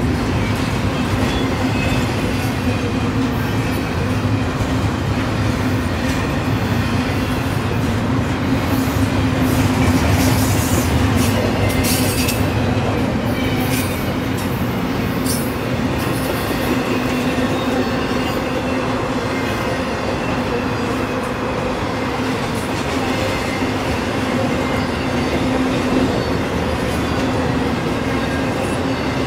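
Freight train's intermodal cars, double-stack container wells and then trailers on flatcars, rolling steadily past: a continuous rumble and clatter of wheels on rail, with a few brief high wheel squeals near the middle.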